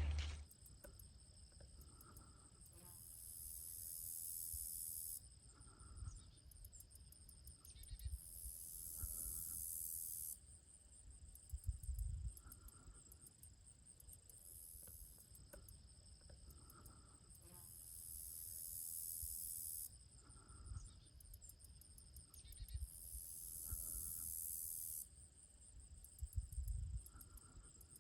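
Crickets and other night insects calling faintly: high trills in long pulses every few seconds over a steady high ringing, with faint low rumbles.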